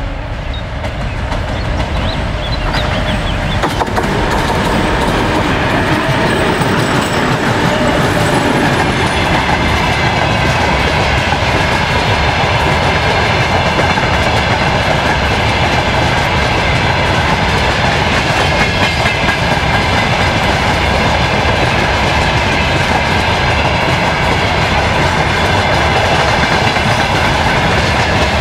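Freight train passing close by: the wagons roll past in a loud, steady rumble with the clickety-clack of wheels over the rail joints, building over the first few seconds and then holding.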